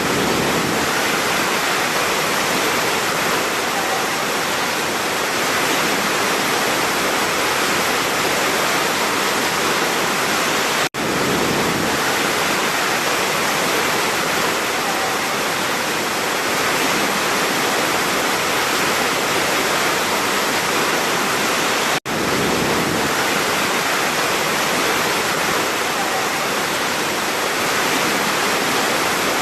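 Large waterfall: a steady, full rush of falling water. The sound drops out for an instant twice, about 11 and 22 seconds in.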